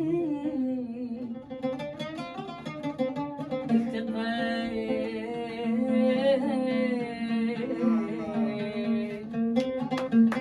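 A man singing an Arabic mawwal in long, wavering melismatic notes over plucked string accompaniment, with more plucked notes near the end.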